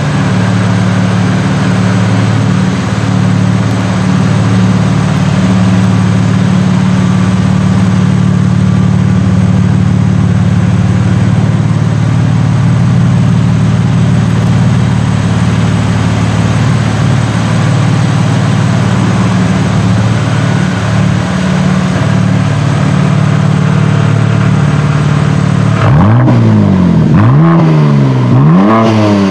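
BMW M4 Competition's twin-turbo inline-six running through an Akrapovic titanium slip-on exhaust, holding a steady engine speed for most of the time. Near the end it gives three quick revs that rise and fall.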